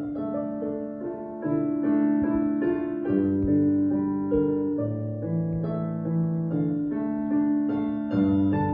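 Solo piano playing a slow piece, a melody of held notes over sustained low chords.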